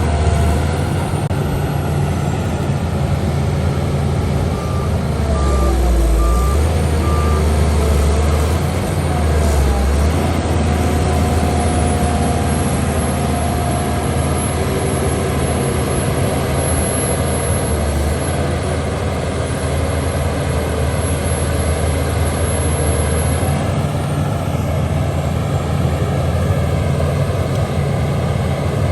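Heavy earthmoving machinery's diesel engine running steadily, with a reversing alarm giving four short beeps about five seconds in.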